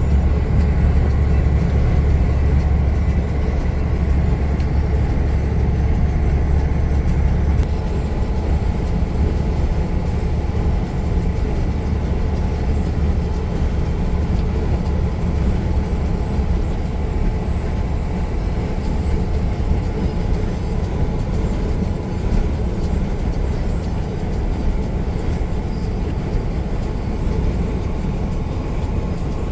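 A truck's diesel engine and road noise while driving: a continuous deep drone that eases a little about seven seconds in, with a faint steady whine above it.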